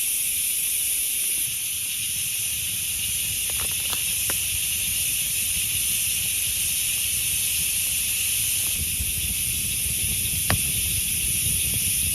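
Steady hiss of heavy rain, with a low rumble beneath it. A few faint clicks come about four seconds in, and one sharper click comes near ten seconds.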